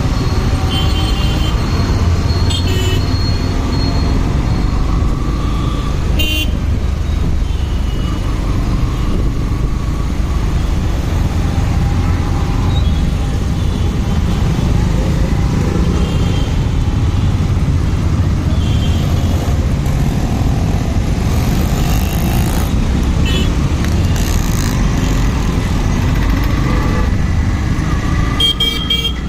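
Motorcycle riding through traffic: steady engine and road rumble, with a few brief horn toots from the traffic around it.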